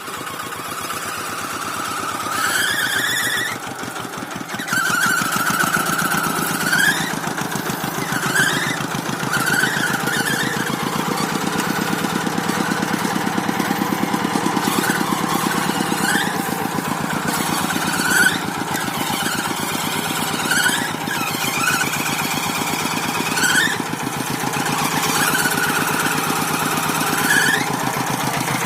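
Tractor engine running steadily with a rapid, even knocking beat. High squeals come again and again over it, some short and rising, a few drawn out for a second or two.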